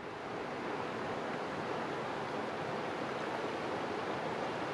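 Whitewater rapids on a river rushing steadily, a constant, even wash of water noise that swells slightly in the first second.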